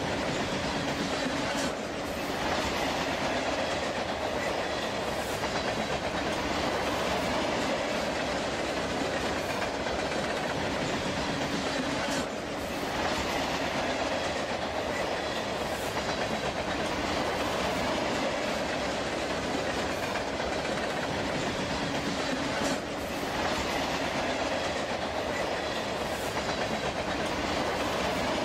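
Freight train rolling steadily, its wheels clacking over the rail joints in a continuous rumble, with a brief dip in level about every ten seconds.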